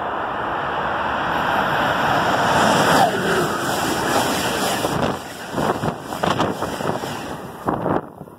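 Amtrak passenger train passing the platform at speed: a rushing roar that builds to a peak about three seconds in, then a run of sharp clicks as the cars go by, dropping away near the end.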